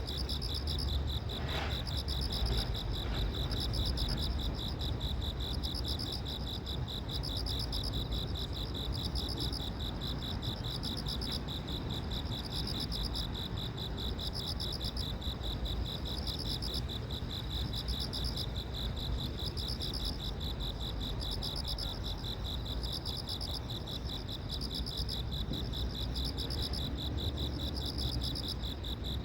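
Insects chirping in a steady, high-pitched chorus that pulses at a regular beat, over a low steady rumble.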